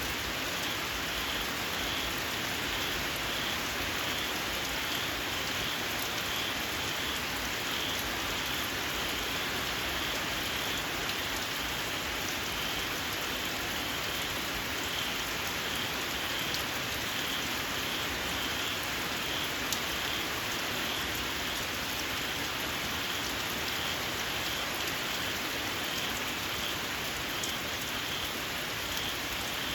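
Steady rain falling on open fields, with a small frog's shrill call repeating over it again and again.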